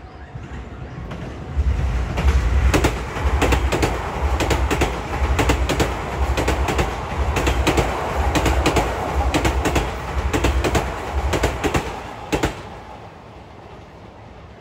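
Sotetsu Main Line electric commuter train passing close by: a low rumble with a run of sharp clacks from the wheels over rail joints. It comes in about a second and a half in and drops away after a last clack about twelve seconds in.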